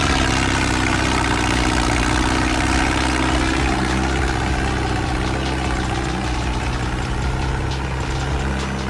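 Tractor engine running at a steady speed, driving a homemade threshing machine.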